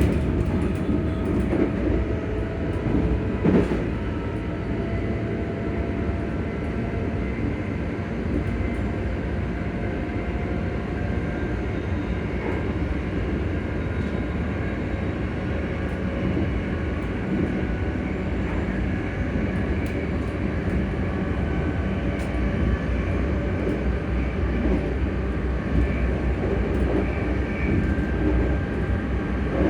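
ScotRail Class 385 electric multiple unit running, heard from inside the carriage: a steady rumble of wheels and running gear with the faint hum of the traction motors, whose tones drift slowly in pitch, and a few light clicks.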